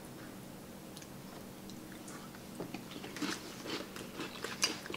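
Quiet eating sounds: chewing with small clicks and crackles of forks on food and crab shell, starting about halfway in.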